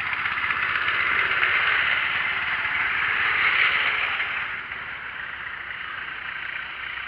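An engine running with a rattling clatter, louder for the first four seconds or so and then easing off.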